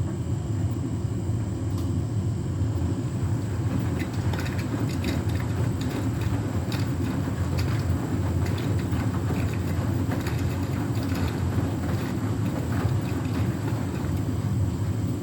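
Beko WTK104121W washing machine in its final spin, the drum turning with a steady low rumble. The load looks a bit unbalanced.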